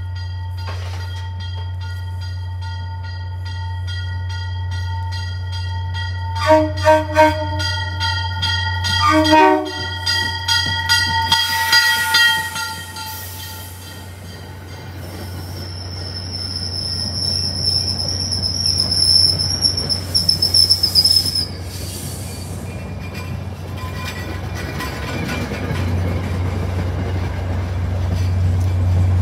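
Passenger train arriving at a station platform: a steady low rumble, several short horn blasts between about six and ten seconds in, then a high-pitched wheel squeal for about six seconds as the coaches roll past, with the rumble building near the end.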